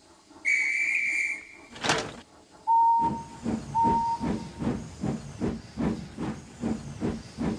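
Steam locomotive starting off: a whistle blows about half a second in, a sharp burst of steam follows, then two short lower toots, and the engine begins chuffing steadily at a little over two puffs a second.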